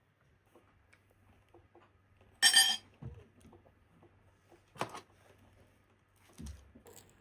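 Household items being handled: a loud ringing clink about two and a half seconds in, a sharper knock near five seconds, and a dull thump near the end, over a faint low hum.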